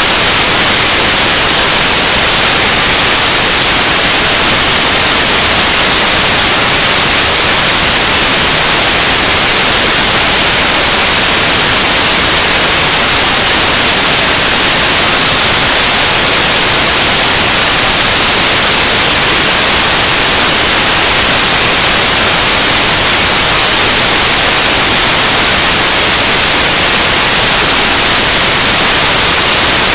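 Noise-music recording: a loud, unchanging wall of static hiss, strongest in the high frequencies, with no rhythm or pitch.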